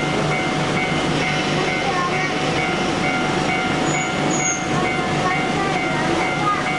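Train running steadily on the rails, a continuous even rumble and wheel noise with no sudden changes.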